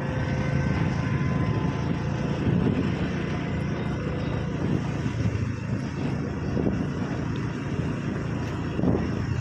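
Small two-wheeler's engine running steadily while riding along a road, a low even hum under a steady rush of noise.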